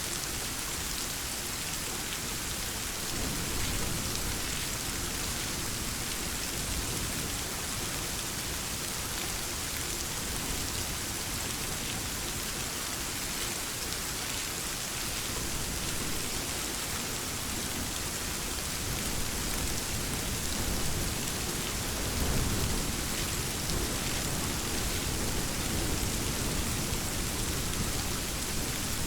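Steady rain falling on surfaces, an even hiss of many drops, with low rumbles of distant thunder swelling about three seconds in and again about twenty-two seconds in.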